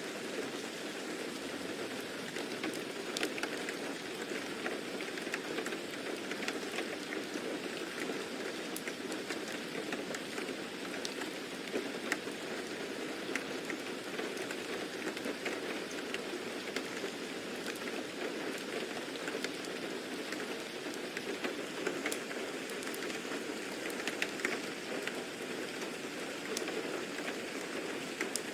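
Steady rain falling on a surface, a continuous hiss with many small drop ticks and patters.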